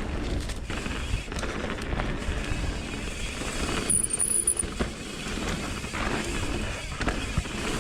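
Mountain bike descending a dirt downhill trail: tyres rumbling over the ground, the bike rattling over bumps and wind on the microphone. About four seconds in, the rumble eases briefly and a short high-pitched squeal sounds.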